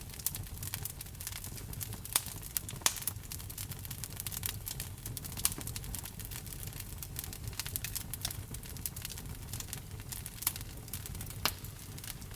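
Wood fire burning in a fireplace, crackling steadily with a dense patter of small snaps and a few louder pops over a low rumble of the flames.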